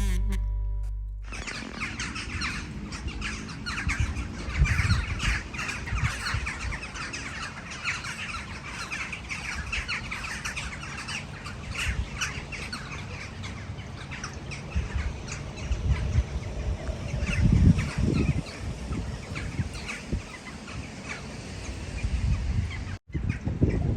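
Birds chirping and calling, many short overlapping chirps, with low rumbles underneath. The sound drops out briefly near the end.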